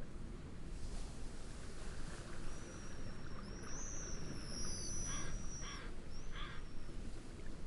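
Steady low wind and wave rumble with birds calling over it: thin high whistling calls in the middle, then three short harsh calls in quick succession near the end.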